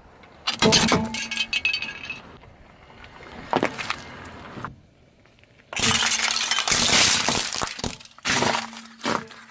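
A car's tyre rolls over brittle objects and crushes them: crackling, cracking and breaking in several bursts. The longest burst comes in the second half, and two shorter ones follow near the end.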